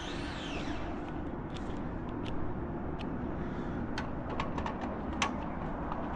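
Scattered light clicks and taps over a steady low hum, with background music fading out in the first second.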